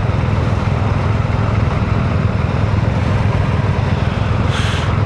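Motorcycle engine idling, a steady low rumble, with a short hiss near the end.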